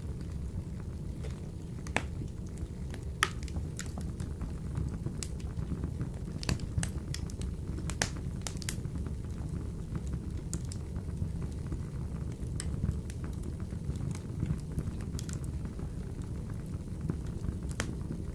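Wood fire burning in a wood-burning stove: a steady low rumble of the flames with irregular sharp crackles and pops from the burning logs.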